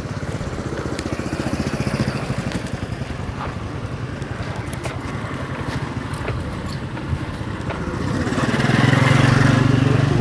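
Motorcycle engine running close by with a fast steady pulse. It grows louder about eight seconds in as it passes, then eases off.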